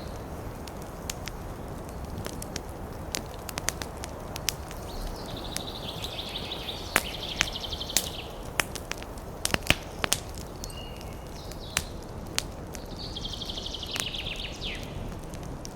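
Wood fire crackling in a fireplace: irregular sharp pops and snaps over a steady low bed of burning noise, the pops thickest in the middle of the stretch.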